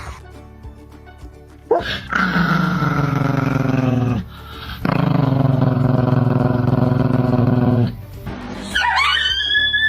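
A dog vocalizing: two long, drawn-out low calls, then a higher whining call that rises and falls near the end.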